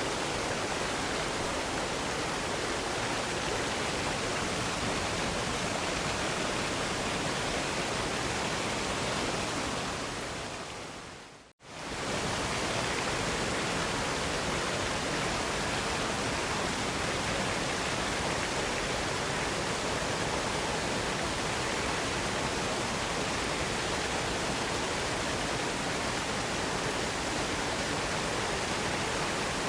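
Steady, even rushing of a waterfall. About eleven seconds in it fades away over a couple of seconds to a moment of silence, then comes straight back at full level.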